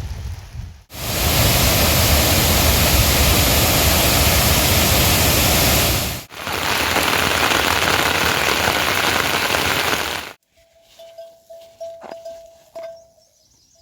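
Heavy rain falling, a loud steady rushing with a brief break about halfway through. Near the end it cuts off suddenly, leaving a faint steady tone and a few soft clicks.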